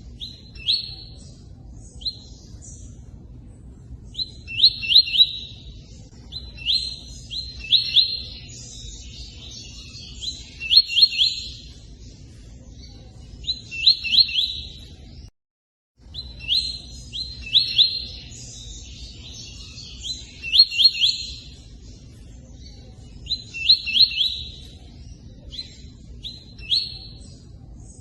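A tui-tui singing: short phrases of a few quick high chirps, repeated every couple of seconds with pauses between, over a steady low rush of running water. The sound cuts out completely for a moment about halfway through.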